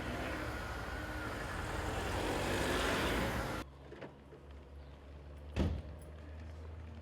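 Street traffic noise swelling as a vehicle passes close by, cut off abruptly about three and a half seconds in. Then a quieter steady low hum with a single thump.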